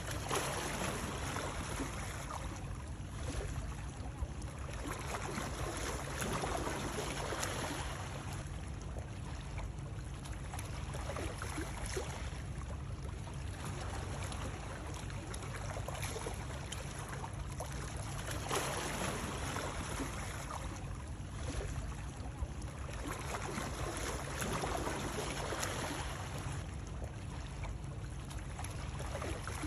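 Continuous water sound: a steady rushing with a low rumble underneath, swelling irregularly every few seconds.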